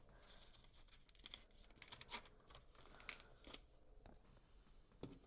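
Faint rustling and several soft, separate clicks of LEGO pieces being handled at the table.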